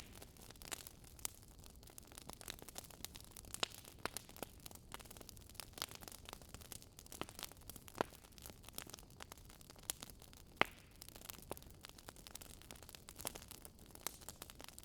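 Wood fire crackling: irregular sharp pops and snaps, a few louder ones, over a faint steady hiss.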